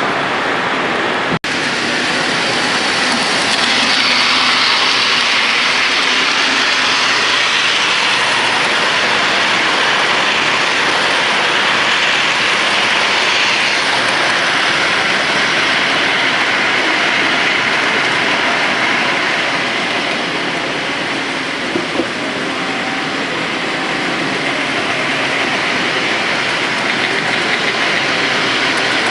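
Model train rolling along layout track: a steady hiss and rattle that briefly cuts out about a second in.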